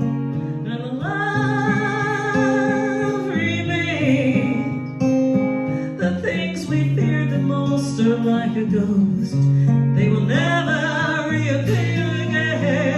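Solo singing with acoustic guitar: the voice holds long notes with vibrato at about one second in and again near the end, while the guitar keeps playing chords underneath.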